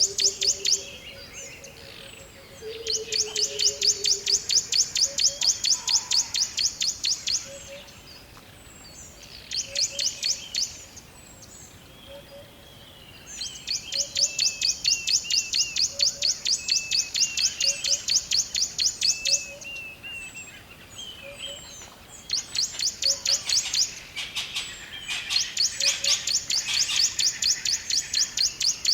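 Forest songbirds singing. One bird gives long, rapid high-pitched trills, each lasting several seconds, about four times over, while other birds add softer chirps in between. A faint low note repeats about once a second underneath.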